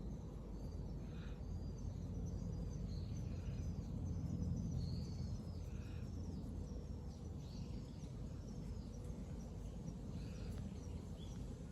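Outdoor ambience with a steady low rumble, and a small bird giving a run of short, high, arched chirps over most of the stretch, roughly one to two a second.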